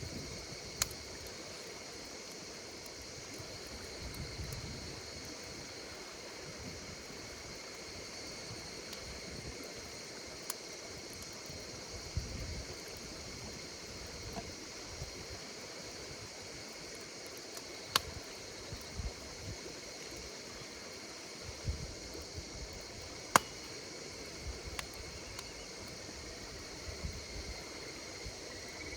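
Wood campfire crackling, a soft hiss and low rumble of burning with a handful of sharp pops scattered through, the loudest about two-thirds of the way in. Behind it, insects keep up a steady high-pitched chirring.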